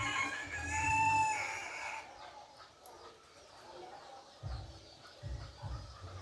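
A rooster crowing once, a long call over the first two seconds, followed by a few low rumbles.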